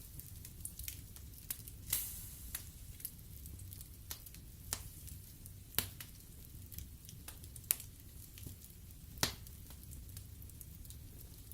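Wood fire burning in a fireplace, the logs crackling with irregular sharp pops, four of them louder, over a steady low rumble.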